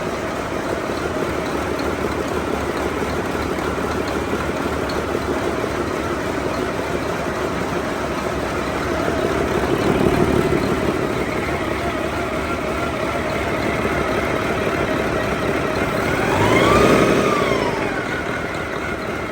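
2010 Mack MP7-325M 10.8-litre inline-six diesel engine running steadily at idle. It is revved up briefly twice, about halfway through and again near the end, the pitch rising and falling back each time.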